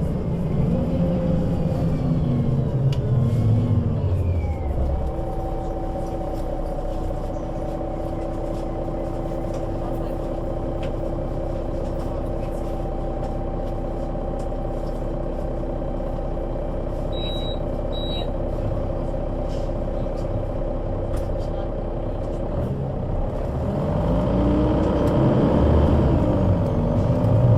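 Solaris Urbino 12 III city bus with a Voith automatic gearbox slowing to a stop, its engine note falling away. It then idles steadily, with two short high beeps a little past the middle. Near the end it pulls away, the engine rising in pitch and getting louder.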